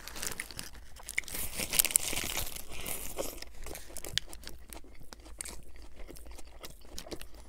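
A mouthful of lettuce-wrapped burger being chewed, with the crisp iceberg-lettuce wrap crunching and many small wet clicks. The crunching is densest and loudest from about one to three seconds in.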